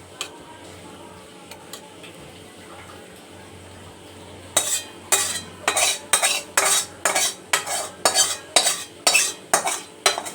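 A spoon scraping and knocking against a kadai, scooping cooked chicken curry out into a bowl. After a few quiet seconds with light clicks, the scrapes come in a steady run of about two strokes a second.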